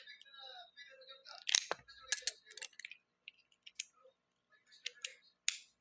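Plastic Lego bricks being handled, with sharp irregular clicks and knocks as pieces are picked through and snapped together.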